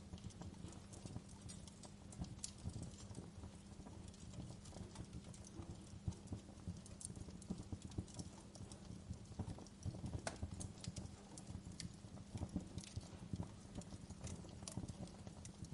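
Wood fire burning in a fireplace: firewood crackling with irregular pops and snaps over a low steady rumble of the flames.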